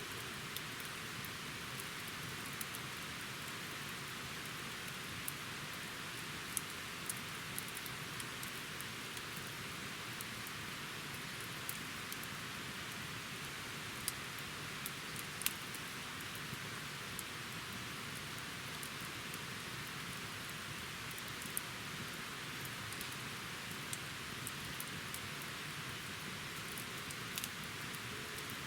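Wood campfire burning: a steady hiss with scattered sharp crackles and pops, a few of them louder.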